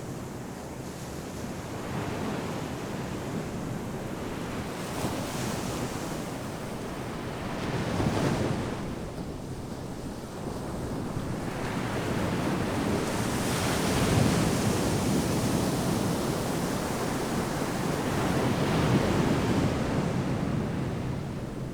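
Ocean waves breaking and washing up on a sandy beach, surging in swells every few seconds with a steady rush of surf between, and some wind on the microphone.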